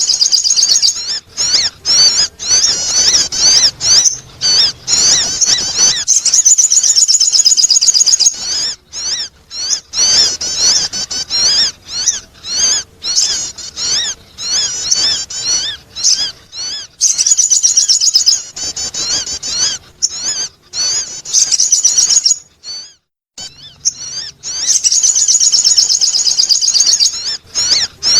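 Sogon bird calling as a lure recording: rapid, high-pitched chattering trills in long bursts broken by short pauses, with one clear break about three quarters of the way through.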